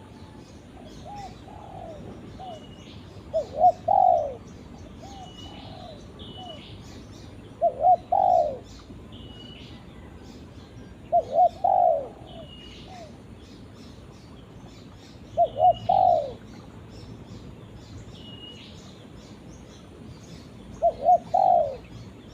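Spotted dove cooing to others of its kind: five phrases about four seconds apart, each two or three short notes running into a longer, louder coo.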